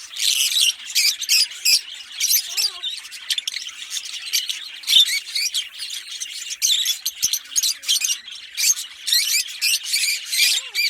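A pair of Fischer's lovebirds chirping and squawking continuously in rapid, shrill, overlapping calls.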